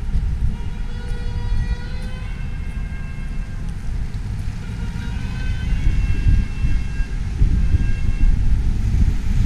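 City street noise: a heavy low rumble of traffic and wind, with a siren-like pitched tone that rises slowly and comes back a few times, each lasting a second or two.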